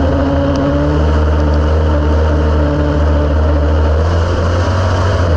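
A race car's engine running hard through a race, heard from inside the cockpit: a loud, steady drone whose pitch holds fairly level with small dips.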